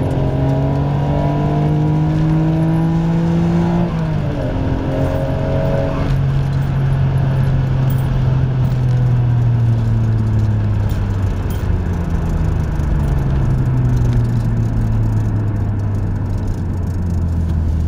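Nissan Stagea 260RS's RB26DETT twin-turbo straight-six heard from inside the cabin, its note rising under hard acceleration. There is a gear change about four seconds in, and after that the note falls slowly and steadily as the engine speed drops and the car slows.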